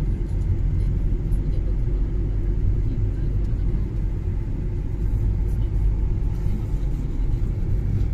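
Car driving on a snowy road: a steady low rumble of road, tyre and engine noise.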